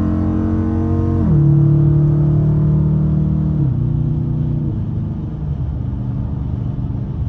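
Straight-piped Dodge Challenger R/T's 5.7-litre Hemi V8 exhaust under way, heard from the driver's seat. The note holds steady, then drops sharply about a second in and again near the middle as the car shifts up, settling into a lower, slightly quieter drone.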